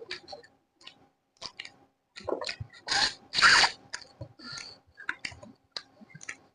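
Close-miked eating sounds: chewing with wet mouth clicks and smacks. A longer, louder noisy stretch comes about three seconds in.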